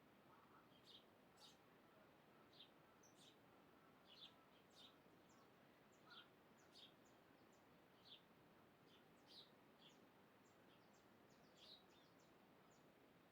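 Faint, short, high bird chirps repeating irregularly, roughly once or twice a second, over a soft steady background hiss.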